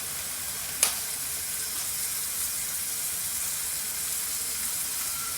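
Onion, garlic, sweet pepper and tomato sizzling steadily as they are sautéed in a pan, with one sharp tap about a second in.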